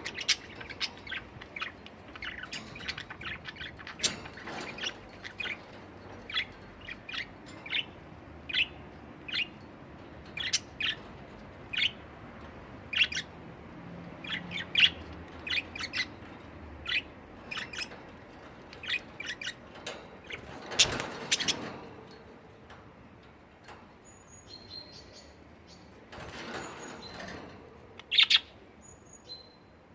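Pet budgerigars chirping: a steady stream of short, quick chirps, thinning out after about twenty seconds into a few higher, thinner whistles. Two brief rustling bursts break in, one about two-thirds of the way through and another near the end.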